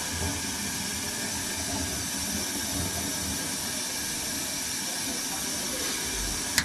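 Steady hissing with a low rumble underneath, then a sharp click near the end.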